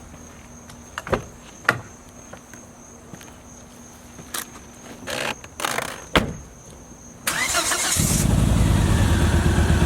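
Volvo car being started: a few separate clicks and knocks, then about seven seconds in the starter cranks briefly and the engine catches and runs steadily.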